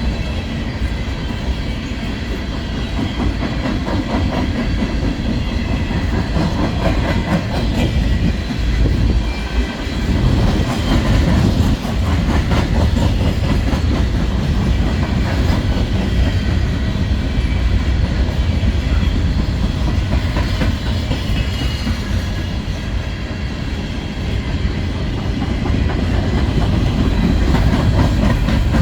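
A freight train of empty coal gondolas rolling past, the wheels clacking over the rail joints with a continuous rumble and rattle.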